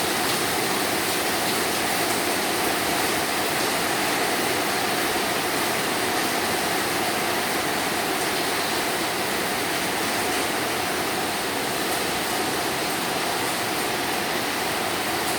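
Heavy rain mixed with hail pouring down, a steady dense hiss.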